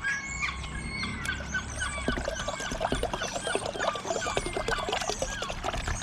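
Liquid being poured from a bottle into a container, gurgling and splashing irregularly, while mixing a 50-50 water and antifreeze coolant. Birds chirp in the background.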